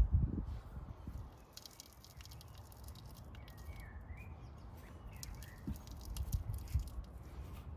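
A dull thump at the start over a steady low background rumble, with a run of light clicks and taps from handling brake parts and tools, and a few faint bird chirps in the middle.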